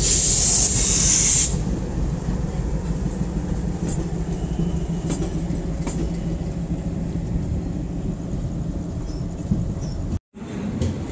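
Diesel locomotive and train running with a steady low rumble and engine drone, a hiss over the first second or so, and a few light clicks. The sound cuts out for a moment near the end.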